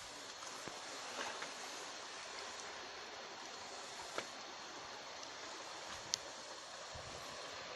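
Steady wash of sea water against the shore, with a few brief sharp clicks over it.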